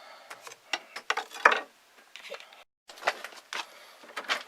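Light clicks, taps and knocks of a homemade wire bird trap and its string trigger being handled, with one firmer knock about one and a half seconds in.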